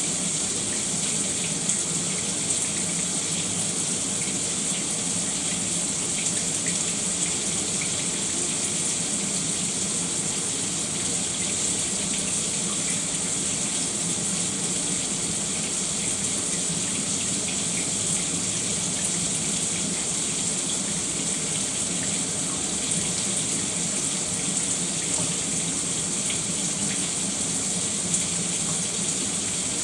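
Shower running steadily, water spraying and splashing without change.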